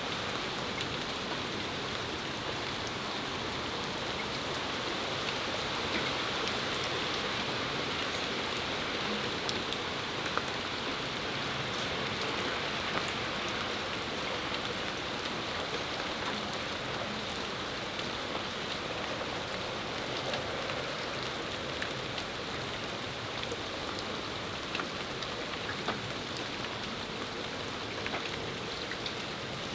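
Steady spring rain shower falling on a patio, with scattered sharp drops and drips ticking through the even hiss.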